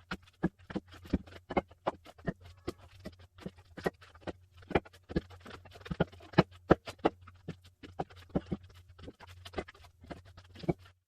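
Split firewood logs knocking against each other as they are stacked one after another: a quick, irregular run of sharp wooden knocks, about three or four a second, over a faint steady low hum.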